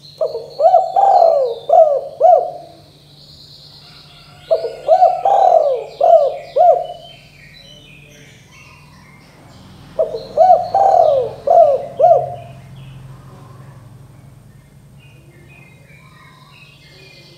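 Spotted dove cooing: three phrases of about four notes each, a few seconds apart, with faint chirping of other small birds behind.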